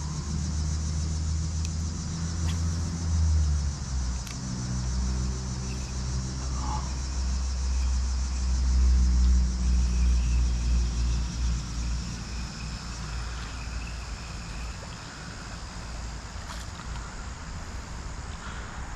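A motor vehicle's engine rumble passing by, growing to its loudest about nine seconds in and fading away soon after, over a steady high-pitched insect drone.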